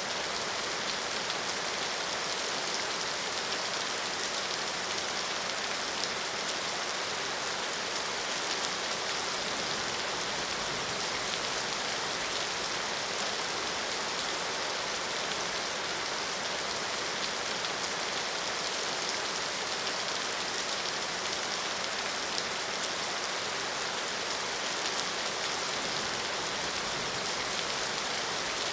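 Steady rain falling, an even hiss of many drops with faint scattered ticks of individual drops striking a surface.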